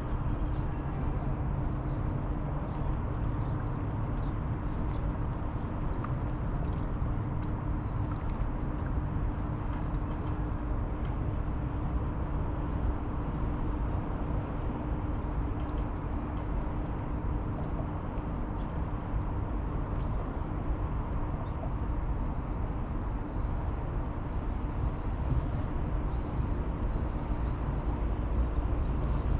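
Steady outdoor riverside ambience: a low rumble with a constant hum running through it, and a few faint high chirps now and then.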